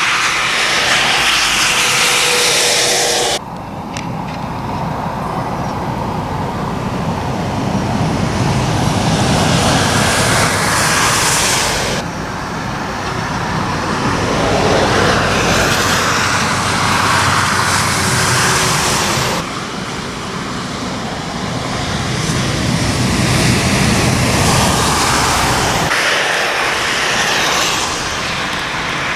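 Heavy trucks driving past on a wet road: diesel engines rumbling and tyres hissing through spray, swelling and fading as each one goes by. The sound changes abruptly several times as one passing gives way to another.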